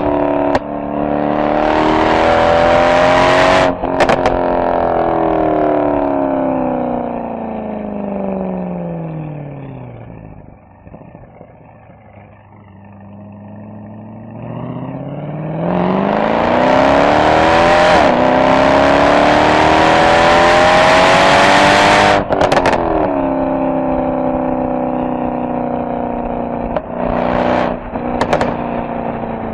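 Mercedes-AMG SL63's V8 exhaust under hard acceleration, its note climbing with short breaks at the gear changes. It then falls away to a low idle-like burble, pulls hard again through another shift, and settles into a steady cruise, with a few short sharp cracks near the end.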